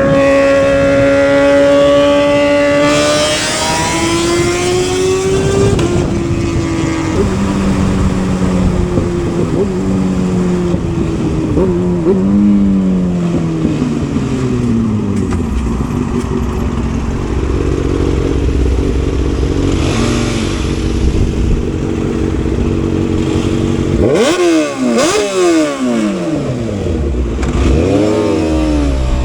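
Motorcycle engine under way, revving up through the gears with the pitch dropping at each shift, then easing off and running steadily. In the last few seconds the pitch swings up and down several times in quick succession.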